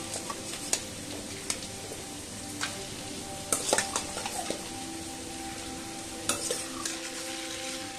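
Marinated chicken sizzling as it goes into hot oil and onion masala in a kadai, with a steady frying hiss. Sharp knocks of a steel bowl and spatula against the pan come through it, a cluster of them about three and a half seconds in.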